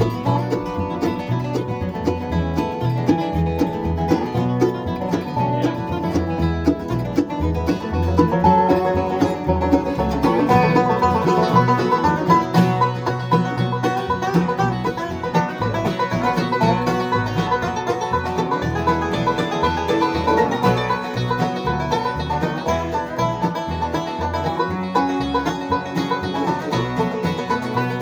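Bluegrass music played on banjo and guitar, with a steady low beat under it.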